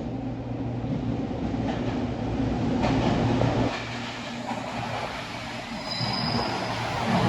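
Tokyo Metro 05 series subway train running into the station, its rumble growing louder as it comes in. There is a knock about three seconds in and a brief high wheel squeal near the end.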